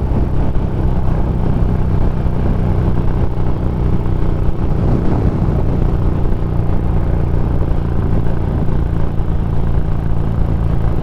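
Harley-Davidson Street Rod 750's V-twin engine running at a steady pitch as the motorcycle rides along, over a steady rushing noise.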